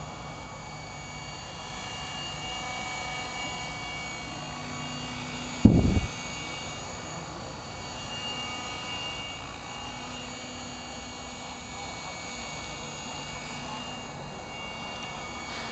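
Electric Compass Atom 500 RC helicopter in flight: a steady whine from its motor and rotor blades, swelling and easing a little as it manoeuvres. A brief loud thump about six seconds in.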